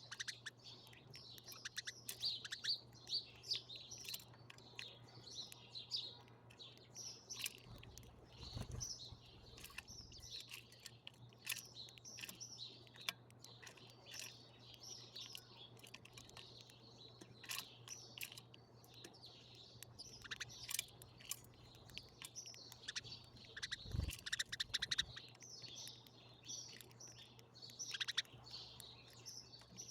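Many small birds chirping at once, short high calls overlapping continuously. Two brief low thumps break in, about nine seconds in and again near 24 seconds.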